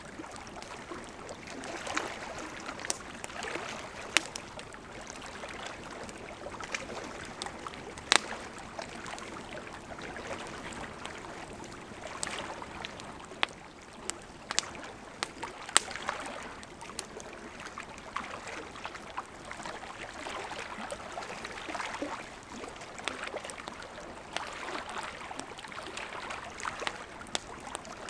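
Burning wood in a campfire crackling, with a soft steady hiss and frequent sharp pops, a few louder snaps standing out.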